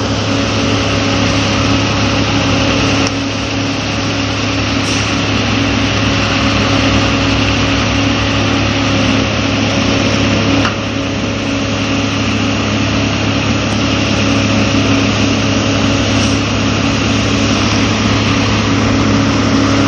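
An engine running steadily at one pitch, with small dips in level about 3 and 11 seconds in.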